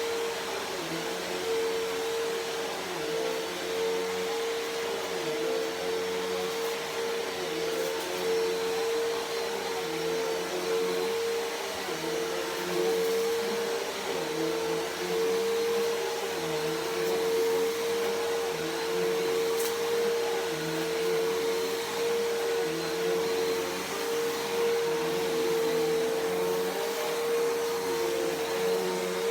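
Bissell PowerForce Helix Turbo vacuum cleaner running steadily with a constant motor whine, its level rising and falling slightly.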